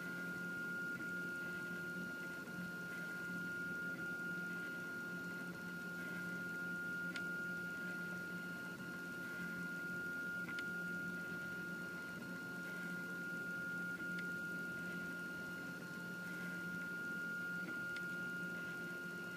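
Prusa i3 3D printer running a print: a steady high whine over a low hum, with a few faint clicks spaced several seconds apart.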